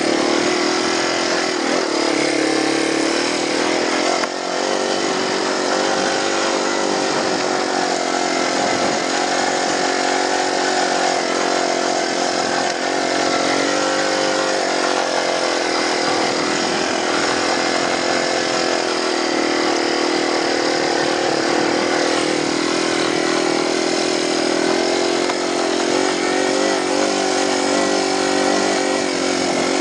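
Yamaha TW200 dual-sport motorcycle's single-cylinder four-stroke engine running steadily as the bike rides a dirt trail, its pitch rising and falling slightly with the throttle.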